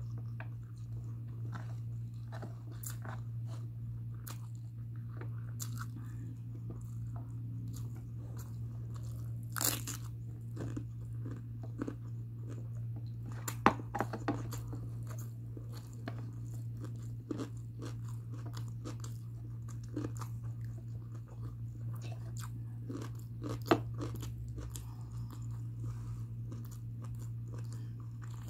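Close-miked chewing and mouth sounds of someone eating mutton biryani by hand, with many small clicks and a few sharper ones about a third of the way in, around the middle and near the end, over a steady low hum.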